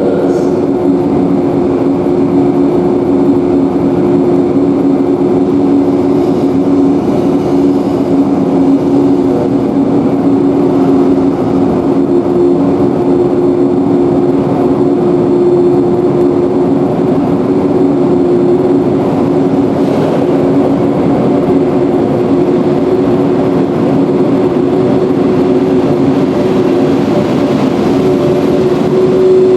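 Steady mechanical drone of a train standing at the platform, equipment running at a constant low hum with two steady low tones and no change in pace.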